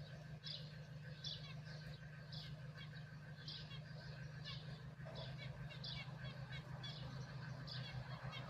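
A bird chirping repeatedly, short high calls about once a second, over a steady low hum.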